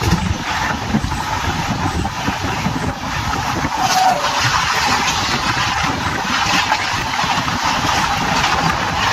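Express passenger train running at speed, heard from aboard the moving coach: a steady, loud rolling noise of wheels on rails with air rushing past.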